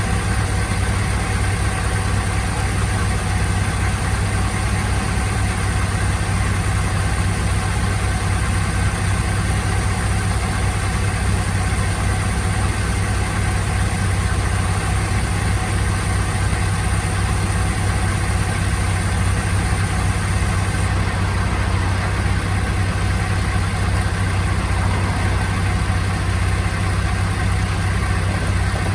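Mazda MX-5 engine idling steadily while flushing cleaner runs through its manual transmission.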